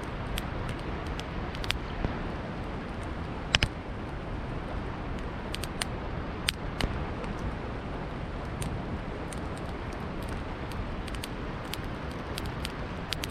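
Campfire crackling, with irregular sharp pops and snaps, the loudest about three and a half seconds in, over a steady rush of flowing river water.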